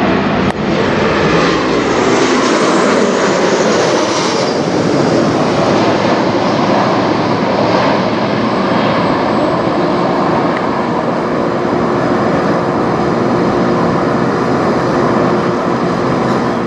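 Jet engines of a Boeing 737-800 airliner, steady and loud as it flies over, with a few faint steady whining tones.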